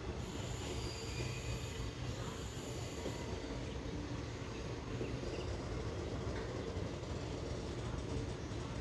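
Passenger train rolling slowly into a station, heard from on board: a steady rumble of the coach's wheels on the rails.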